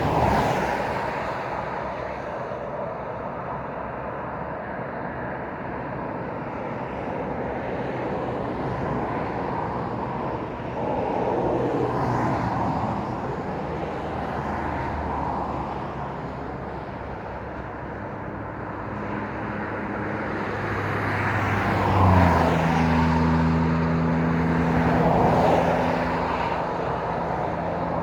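Road traffic: cars and lorries passing one after another, their tyre and engine noise swelling and fading with each pass-by. About three-quarters of the way through, a steady low engine drone joins in and holds.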